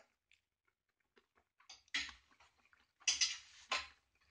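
A person chewing a mouthful of skirt steak fajita close to the microphone: small wet mouth clicks, with a few louder noisy bursts about two and three seconds in.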